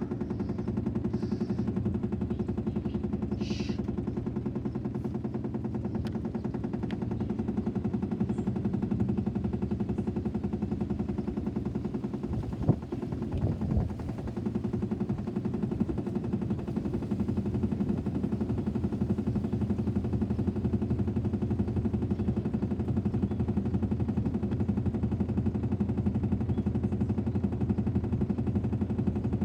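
Washing machine on its spin cycle: a steady, fast rattling drone. There is one sharper knock about halfway through.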